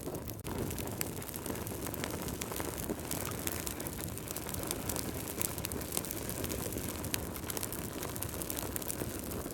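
Wood fire burning in a fireplace: logs crackling, with many small sharp pops and snaps over a low steady rumble of flame.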